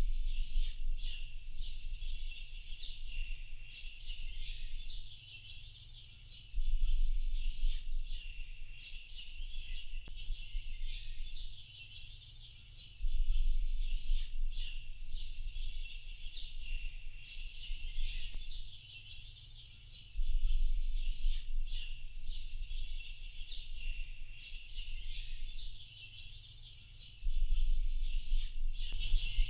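A dense chorus of many small birds chirping and twittering without a break. A low rumble swells in suddenly about every seven seconds, five times in all.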